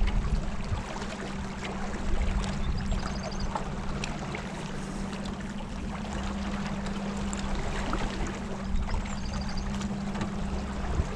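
A boat motor running steadily with a constant low hum, and water splashing and rushing along the hull.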